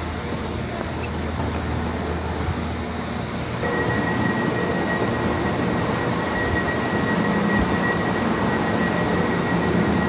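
A passenger train running, a steady rumble and hiss. About four seconds in it grows louder and a steady high whine joins it.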